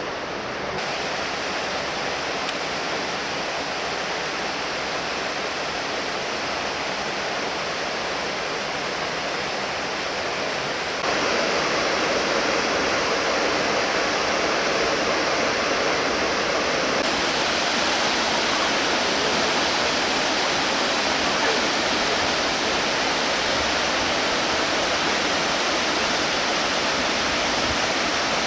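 Ryūmon Falls, a broad waterfall, pouring steadily as a dense rushing noise. It gets louder in steps, about a second in and again about eleven seconds in.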